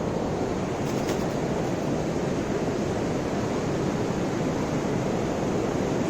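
Flood-swollen river rushing over a waterfall: a steady, even rush of water.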